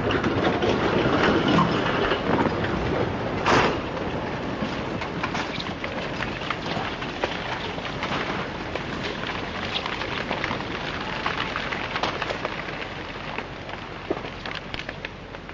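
Rushing water: a dense, steady noise full of small crackles, with one sharp crash about three and a half seconds in, slowly growing quieter.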